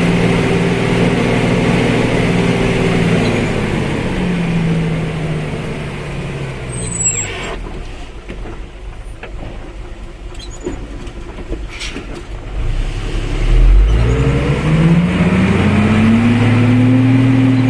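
A motor vehicle engine running, its pitch falling as the revs drop off about halfway through, with a brief high squeal. Near the end the engine revs back up, its pitch rising.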